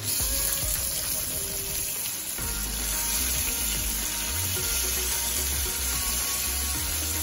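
Turmeric-coated prawns sizzling in hot oil in a wok as they are laid in one by one. The sizzle is a steady hiss that gets louder as the first prawns go in.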